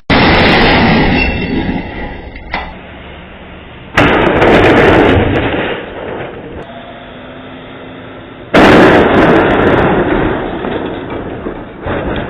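Three vehicle crash impacts: a sudden loud noisy crash at the start, another about four seconds in and a third a little after eight seconds, each fading over a second or two.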